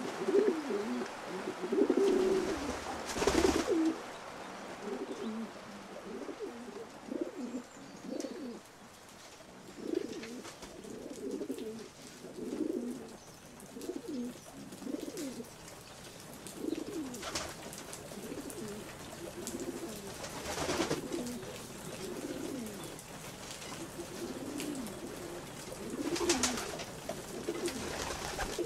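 Pigeons cooing over and over in low, soft calls, with a few short rustling noises, the loudest about three seconds in.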